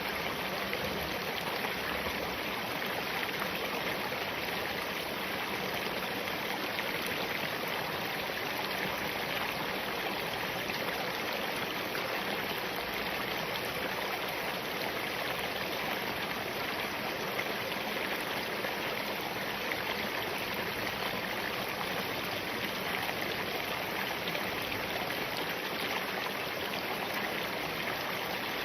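A small mountain stream of spring water running over rocks: a steady rushing and babbling, brightest in its higher splashing tones.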